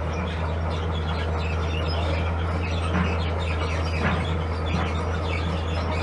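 Heavy construction machine's diesel engine running with a steady low drone, with scattered short high chirps over it.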